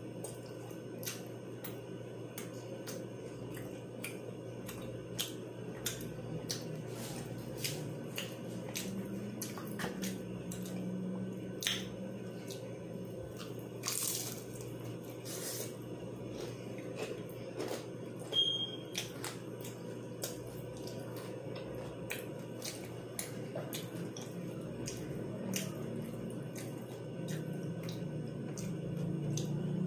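Close-miked chewing and crunching of crisp fried food, fried cheese wontons dipped in sauce: irregular sharp crackles and wet mouth clicks over a low steady hum, with a louder crunch about halfway through.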